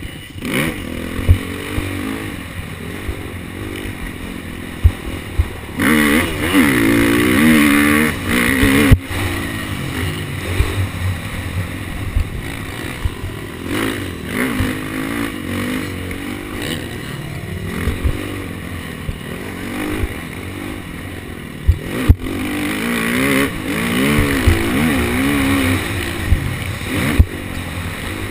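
KTM SX250F's four-stroke single-cylinder engine revving up and down as the dirt bike is ridden around a motocross track, with two longer full-throttle pulls, the first about six seconds in and the second near the end. Wind rush and clattering from the bike run throughout, with sharp knocks about nine seconds in and again around twenty-two seconds.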